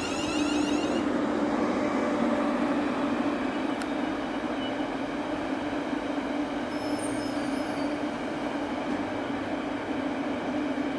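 Class 350 electric multiple unit coming to a stop at the platform. A whining tone dies away about a second in, leaving a steady hum from the train as it stands.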